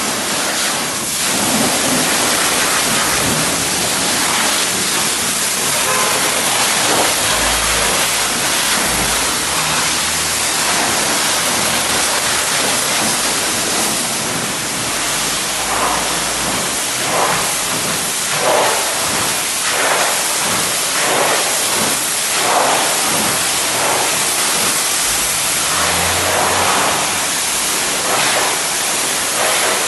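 Water spray at a car wash, hissing steadily and loudly, its splash changing in tone every second or so from about halfway through.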